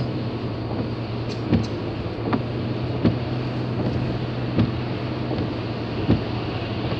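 Car interior on a drive through heavy rain: a steady hum of engine and wet road with rain noise, and the windscreen wipers thumping evenly about every three quarters of a second.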